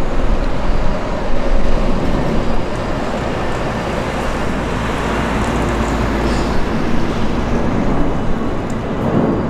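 Thameslink electric train running steadily across the Cannon Street railway bridge over the Thames, a continuous rumble blended with city traffic noise.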